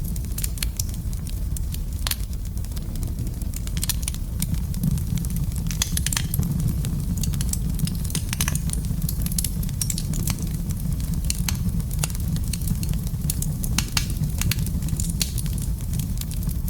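Wood fire burning in a fireplace, with a steady low rumble of flames and frequent irregular crackles and pops.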